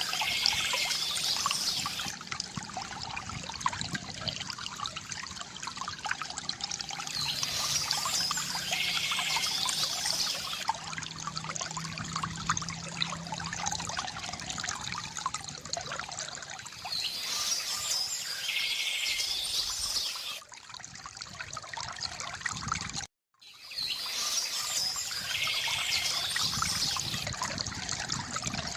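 Water trickling and splashing from a bamboo fountain, with short bird chirping phrases that recur about every nine seconds. The sound cuts out completely for a moment about three-quarters of the way through.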